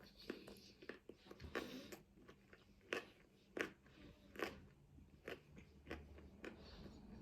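Close-up mouth sounds of someone chewing lahmacun: a string of faint, wet crunches and clicks as the flatbread is bitten and chewed, a few sharper crunches near the middle.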